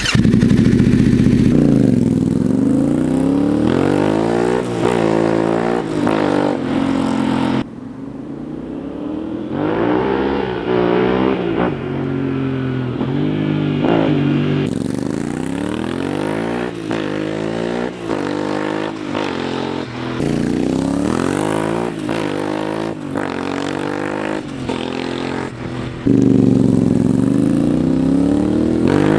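Yamaha Ténéré 700's 689 cc parallel-twin engine running decatted and remapped with the dB killer removed, revving and accelerating, its pitch climbing and dropping again and again. The sound changes abruptly about a third and halfway through and again near the end.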